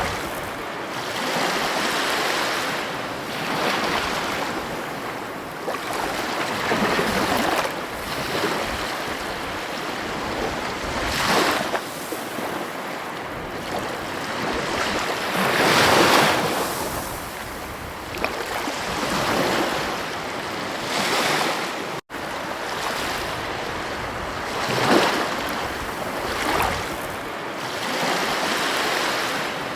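Ocean surf on a beach: a continuous rushing of water that swells and ebbs as waves break every few seconds, loudest about 16 seconds in. The sound cuts out for an instant a little after 22 seconds.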